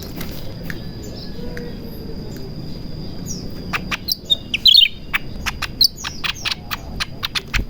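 A cucak ranting in breeding condition (birahi) calling: about three seconds in, a rapid run of short, sharp chirps and clicks breaks out, loudest a little past the middle. A steady high tone runs underneath.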